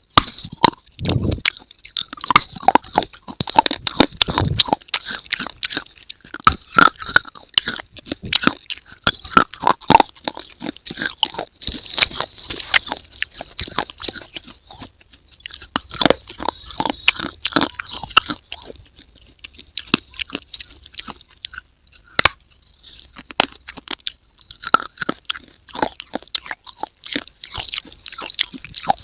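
Crunching and chewing: a rapid, irregular run of sharp, crackly clicks that thins out for a few seconds past the middle.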